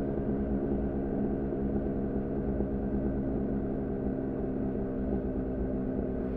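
2014 Yamaha R6's inline-four engine running at a steady, low engine speed through an R9 titanium muffler on a Leovince header: an even drone that holds its pitch.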